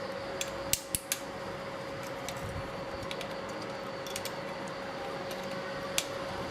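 A few sharp metallic clicks and light taps from hand tools and parts being handled during the disassembly of an old stick welding machine, over a steady hum with a faint constant tone. Three or four clicks come close together in the first second or so, then two more near the middle and one near the end.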